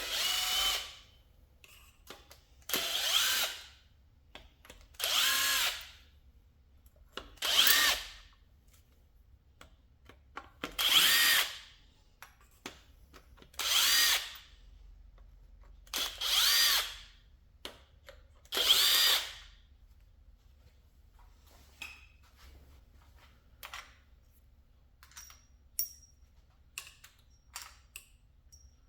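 Cordless impact tool spinning bolts out of the engine, eight short bursts about every two and a half seconds, each with a rising whine. Light metallic clicks and taps follow near the end.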